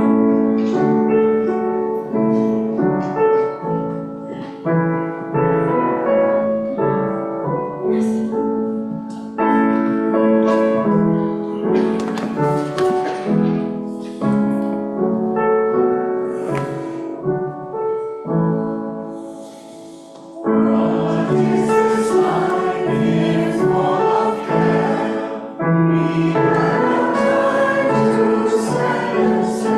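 A hymn played on piano with singing, the sound growing fuller about twenty seconds in.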